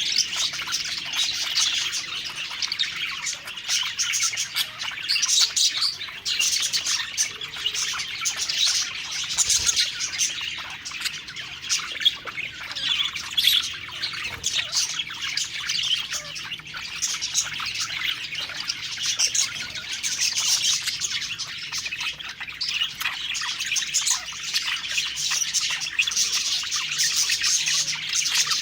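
Budgerigars (parakeets) chirping and warbling, a continuous dense chatter of many birds with occasional squawks.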